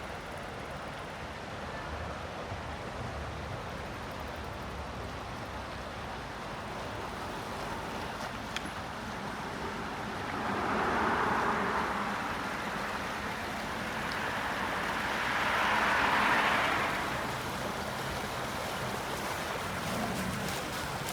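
Steady rush of water and wind, swelling twice into a louder wash about ten and fifteen seconds in.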